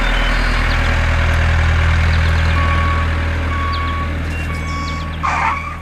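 Heavy truck-type engine running steadily, with a reversing alarm beeping three times about a second apart. The engine fades out near the end, just after a short higher-pitched sound.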